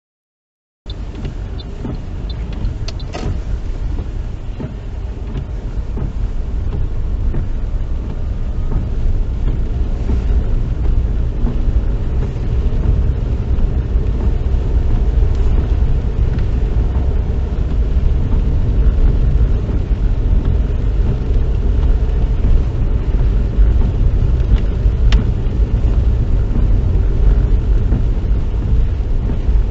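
Car cabin noise while driving: a steady low rumble of engine and tyres on the road. It cuts in abruptly just under a second in and grows louder over the first ten seconds or so, then holds steady.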